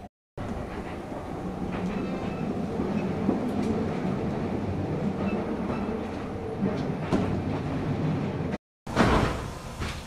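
Kintetsu 5800-series electric train running: a steady rumble with a few clicks. Near the end, after a brief dropout, a sudden louder rush fades over about a second.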